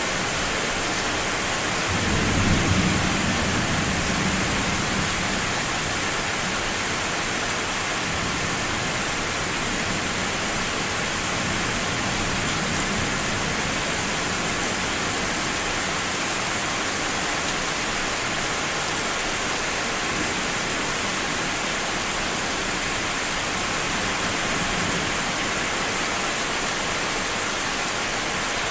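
A low roll of thunder rumbles in about two seconds in and dies away over the next few seconds, over a steady rushing hiss.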